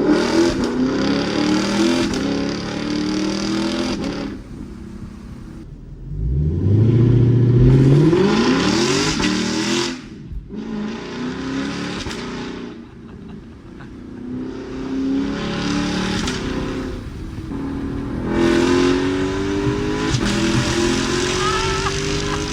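Lexus LC500's 5.0-litre V8 through an Armytrix aftermarket exhaust, crazy loud, accelerating hard in several pulls. The pitch climbs through the revs, loudest about a third of the way in, with drops in between as the throttle eases.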